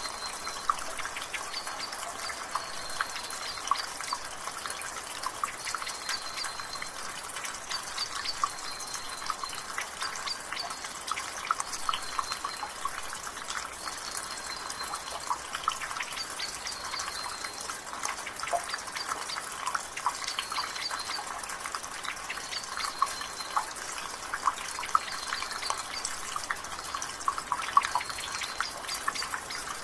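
Rainwater dripping from a gutter: a quick, irregular patter of drops over a steady light rain hiss, with a bird repeating a short high note about every two seconds.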